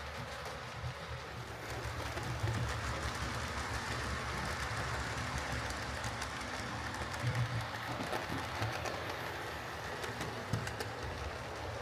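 Hornby OO gauge Princess Coronation class model locomotive running along model railway track on a test run after its left valve gear was repaired: a steady low motor hum with the wheels rolling and clicking over the rails.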